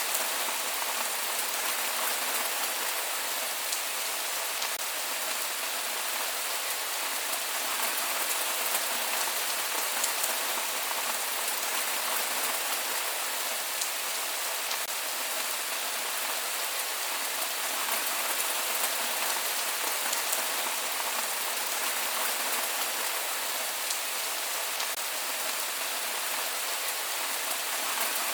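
Steady rain falling with no thunder: an even hiss of rain, dotted with the ticks of single drops.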